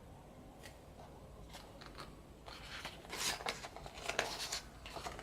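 Thick, heavy pages of a photo book being turned and handled, with short crisp paper rustles and crackles that get louder in the second half.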